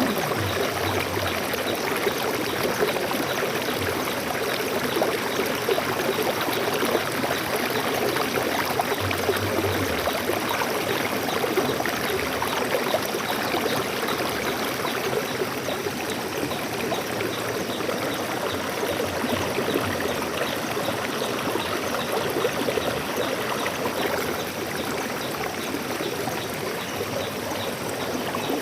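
Flowing stream water, a steady babbling and trickling rush.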